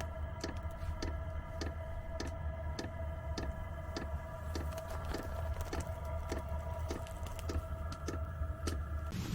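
Diesel parking heater running: a steady fan whine over a low hum, with the fuel dosing pump ticking evenly about two and a half times a second.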